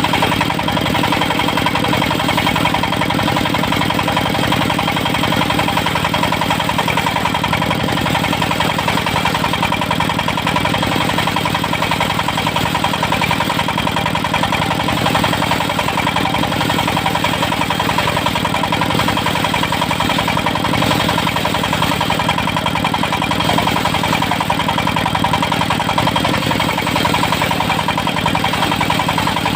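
Engine-driven portable circular sawmill running steadily at a constant speed, with no change in pitch or level.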